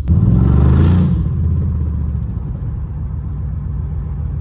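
2015 Dodge Charger's 5.7-litre Hemi V8 revved once near the start, then dropping back to a steady idle. The engine is knocking, which the owner puts down to a stuck lifter.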